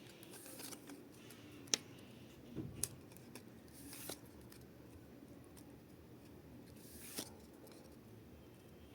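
Pokémon trading cards and booster-pack wrappers being handled: a few short rustles and scrapes with a couple of sharp clicks.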